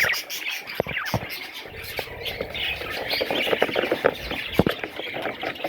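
Baby budgies chirping and squawking, with many short scratchy clicks throughout.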